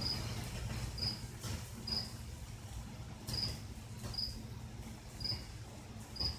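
Cricket chirping: short high chirps repeating about once a second, with a low steady hum underneath.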